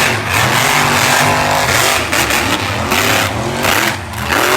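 A monster truck's engine running hard and revving, its pitch rising and falling several times.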